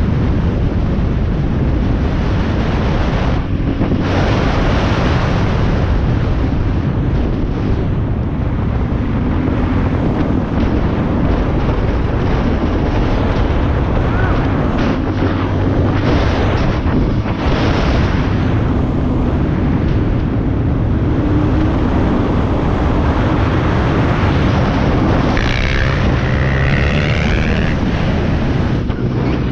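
450 dirt bike engine running as it is ridden along a trail, with heavy wind noise on the microphone. Near the end the engine pitch rises and falls a few times.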